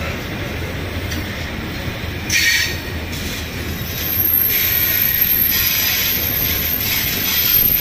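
Steel-wheeled ballast hopper wagons of a freight train rolling past at close range, with a steady rumble. A short high wheel screech comes about two and a half seconds in, and a louder high squeal sets in from about four seconds on.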